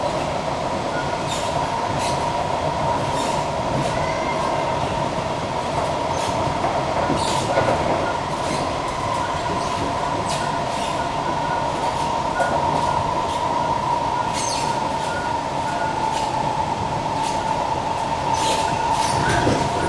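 Kawasaki-CSR Sifang C151B metro train running between stations, heard from inside the car: a steady high whine at one pitch over the running noise, with irregular clicks from the wheels on the track.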